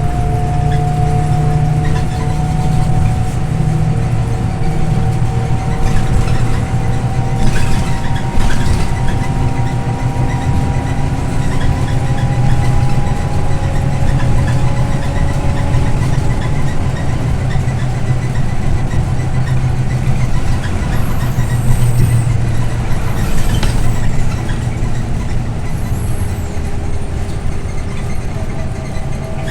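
Scania OmniLink I city bus heard on board while driving: a steady low engine drone with a thin drivetrain whine that rises slowly in pitch over the first half and then holds. Short rattles come twice, about a third of the way in and again near the three-quarter mark.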